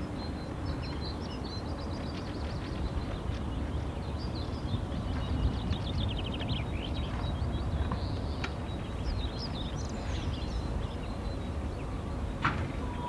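Wild songbirds chirping and trilling in quick runs over a steady low rumble, with a single sharp click near the end.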